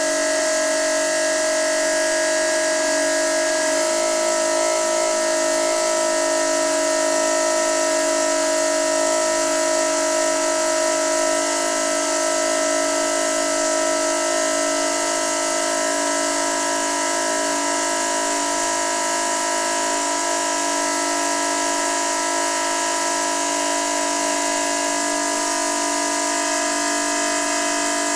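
Noisy water pipe singing: a steady whine of several held tones over a constant hiss of flowing water.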